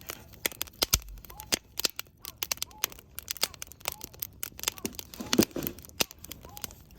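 Wood campfire crackling, with many irregular sharp pops and snaps. The loudest pop comes about five and a half seconds in.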